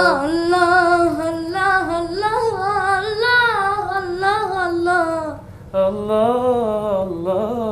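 A girl's voice singing an Arabic nasheed, holding long ornamented notes with vibrato. It breaks off briefly about five and a half seconds in, then goes on.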